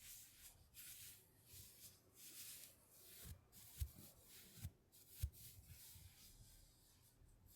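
Faint, repeated scratchy rubbing strokes, with three soft low thumps in the middle.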